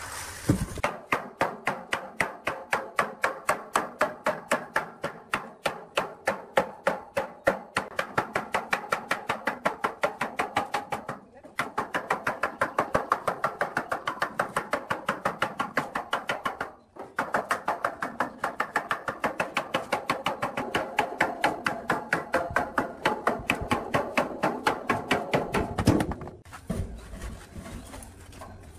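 A hand tool striking or scraping rusty metal in a fast, even rhythm of about five strokes a second, in three long runs broken by two short pauses.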